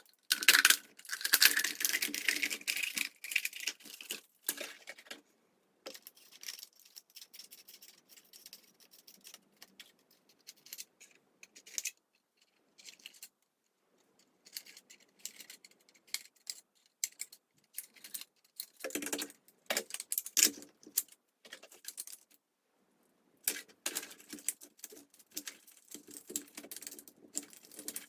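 Irregular clicks, taps and rattles of small objects, likely plastic, being handled on a table, in several stretches broken by brief total silences. The loudest clatter is in the first few seconds.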